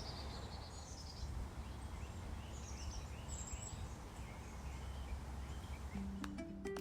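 Backyard outdoor ambience: faint bird chirps and calls over a steady low background noise. About six seconds in, soft plucked-guitar music begins.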